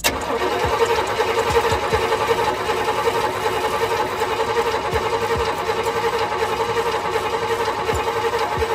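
Carbureted Chevy engine, air cleaner off, cranking over on the starter for about nine seconds without catching, then stopping suddenly near the end. It is slow to start on a new carburetor that the owner blames.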